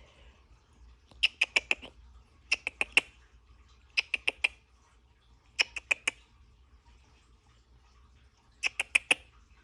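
Cockatiel chirping in short bursts of three to five quick, sharp chirps, five bursts in all, spaced a second or more apart.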